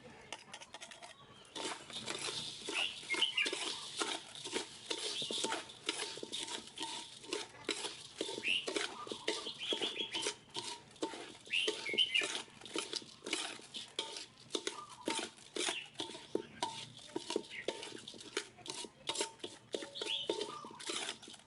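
Bird food being mixed with raw chicken eggs by hand in a bowl: a busy, irregular run of rustling, scraping and small clicks as the pellets and crumbs are kneaded together.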